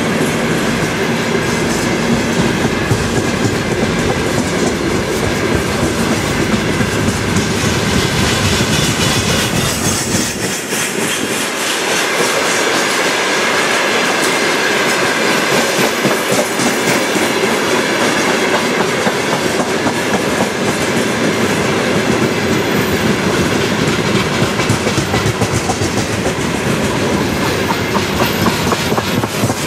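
Open-top freight wagons (gondola cars) of a long freight train rolling past close by: a steady rolling rumble with a rapid clickety-clack of wheels over the rail joints. The deepest part of the rumble thins out about ten seconds in.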